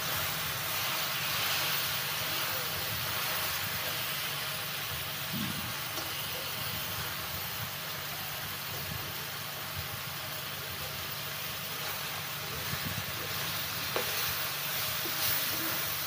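Fried snakehead fish steaks and chili paste sizzling in a wok while a spatula stirs them, a steady frying hiss with a few light knocks of the spatula against the pan. A steady low hum runs underneath.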